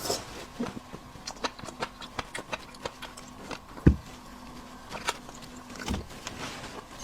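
Close-miked eating and handling of shellfish: scattered sharp clicks and crackles of shell being broken and pulled apart, with two dull thumps about four and six seconds in.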